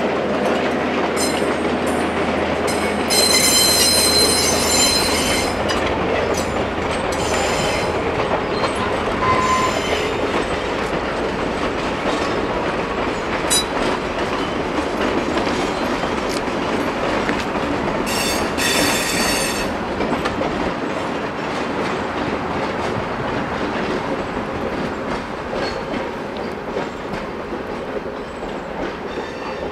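Railroad cars of a slow passing train rolling over the rails with a steady rumble and clatter. Shrill wheel-flange squeals rise out of it about three seconds in, briefly again around seven seconds, and once more after eighteen seconds. The sound eases off toward the end as the train draws away.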